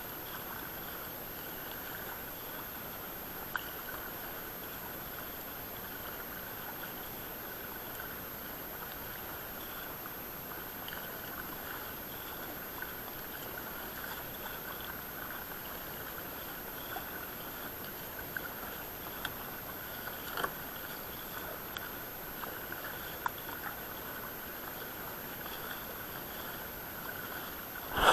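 Steady water sounds around a sea kayak, with a few light knocks scattered through and a louder bump at the very end.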